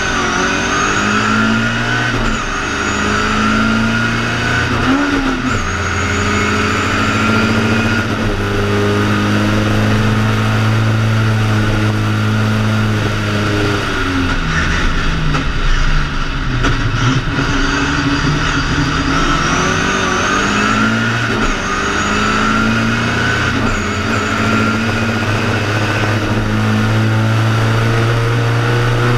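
BMW 2002 ti's four-cylinder engine at racing speed, heard from inside the car, revs held high with short dips at gear changes. About halfway the pitch drops and wavers for a few seconds before it climbs and holds high again.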